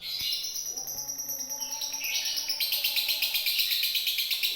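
Lovebird singing a long, nonstop run of rapid, high chattering notes, growing louder and fuller a little past halfway: the continuous 'konslet' song style prized by Indonesian lovebird keepers.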